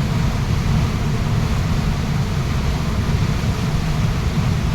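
Waterfall pouring with a steady, loud rush, heaviest in a deep low rumble.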